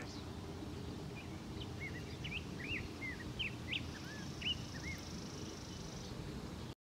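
Small birds chirping: a scattered run of short chirps over a steady low outdoor background noise, cutting off suddenly near the end.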